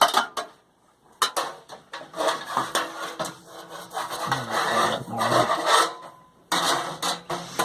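Metal scraping and clattering inside a wood furnace's firebox as a drilled metal insert for burning pellets is shifted into place.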